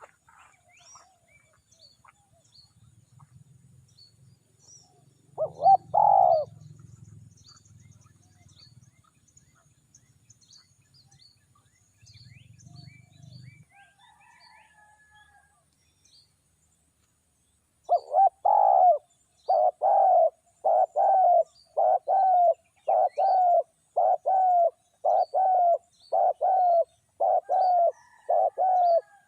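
Spotted dove (tekukur) cooing: a single call about six seconds in, then from about eighteen seconds a steady run of short, loud coos, roughly one and a bit per second. Faint high chirps of small birds sound throughout.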